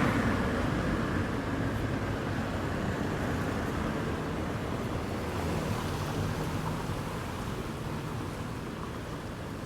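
Strong wind blowing, a steady rushing noise that slowly fades.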